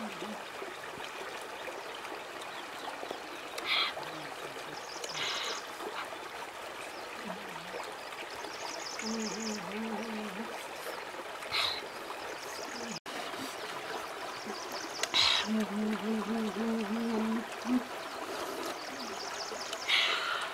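Steady rush of a flowing stream, with a few short sharp crunches or clicks on top and twice a low hummed voice.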